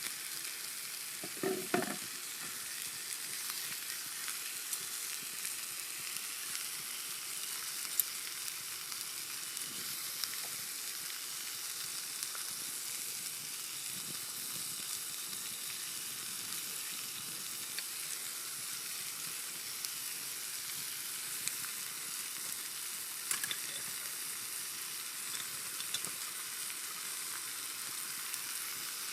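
Steak sizzling on a thick steel griddle over a campfire: a steady, even hiss with a few sharp pops scattered through it, and a short louder knock about two seconds in.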